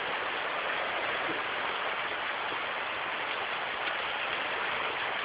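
Steady rain falling during a thunderstorm, an even hiss without any thunderclap.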